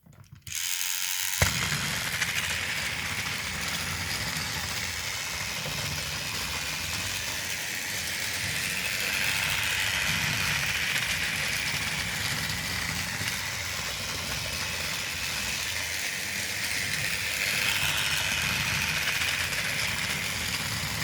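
Battery-powered toy train running on plastic track: a steady whir from its small motor with wheels and coupled cars rattling, the whine drifting slightly up and down. A sharp click comes about a second in as it starts.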